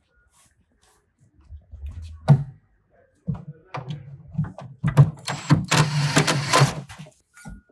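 Knocks and rough scraping as a commercial refrigerator is worked off its wooden shipping pallet: one sharp knock about two seconds in, then several seconds of knocking and grinding with a low rumble, loudest in the second half.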